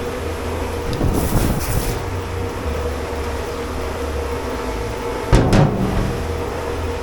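Steady hum of dish pit machinery, with a short hiss about a second in and a loud knock or clatter a little after five seconds.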